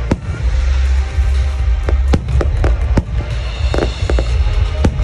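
Fireworks going off in a rapid, irregular string of sharp bangs and crackles over a deep rumble, with music playing underneath.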